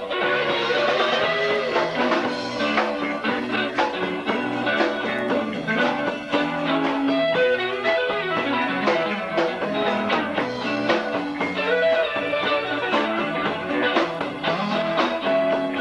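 Live band music: guitar, bass guitar and drums playing an instrumental passage with a steady beat and no singing.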